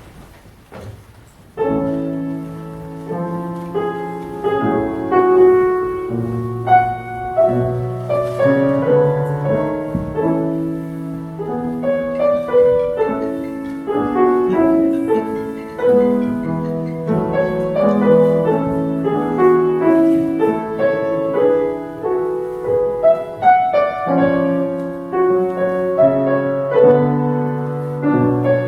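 Grand piano playing a classical piece, beginning about one and a half seconds in with a sudden entry and running on with chords and melody.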